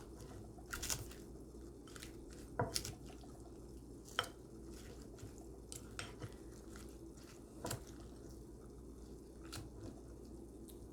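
Faint eating sounds: cutlery clinking against a plate about six times, with soft chewing in between.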